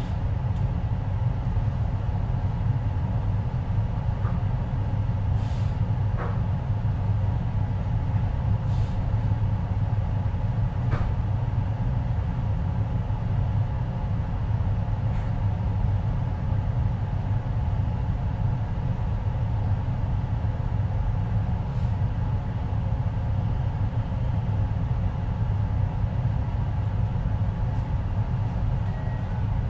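Steady low hum inside a JR Hokkaido 733-series electric train car standing still, with a few faint clicks and no change in pitch.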